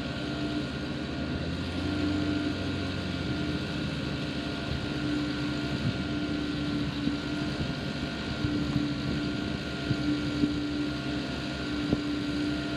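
An engine running steadily with a low drone and a faint steady whine, a tone in it swelling and fading every second or two.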